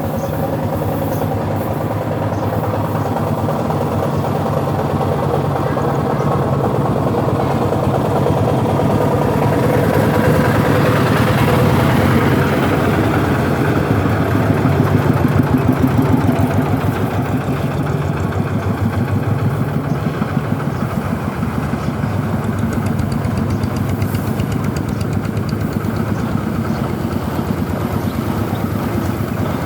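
An engine running steadily, growing louder about halfway through and then easing off.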